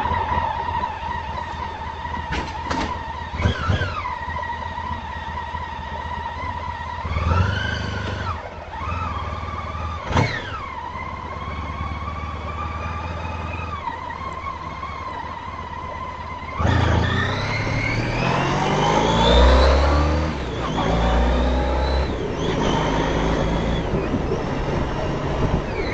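Honda ST1300 Pan European's V4 engine running steadily with a constant whine, its pitch briefly rising twice. About two-thirds of the way in it grows louder and accelerates, the pitch climbing, dropping briefly, then climbing again.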